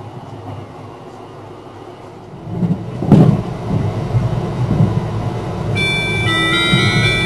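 Cassiopeia sleeper train running, heard from inside the passenger car: a steady low rumble of wheels on rail that gets louder about two and a half seconds in, with one sharp clack about three seconds in. Near the end an onboard melody chime starts ringing, signalling the coming arrival announcement.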